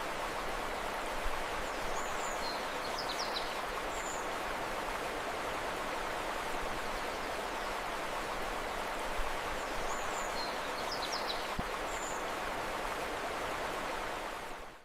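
Steady rushing of a flowing river, with two short bursts of high bird chirps, one a couple of seconds in and one about ten seconds in. The whole fades out at the very end.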